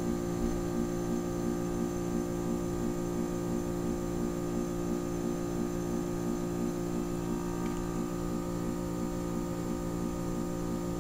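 Goodman heat pump's compressor humming steadily during a defrost cycle, a constant hum with several fixed tones.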